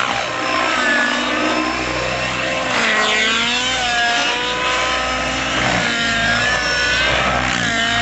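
Nitro model helicopter's YS 91 SR glow engine running hard, its pitch rising and falling again and again as the throttle and rotor load change.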